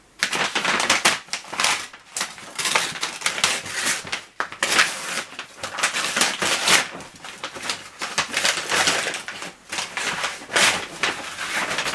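A delivered parcel's packaging being torn open and handled: irregular crinkling and crackling rustles that come and go throughout.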